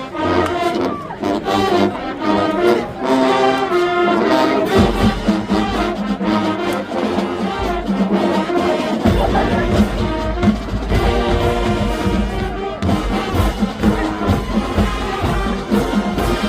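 High school marching band playing, brass section carrying the tune over drums. The low end grows much heavier about nine seconds in as deep bass notes come in.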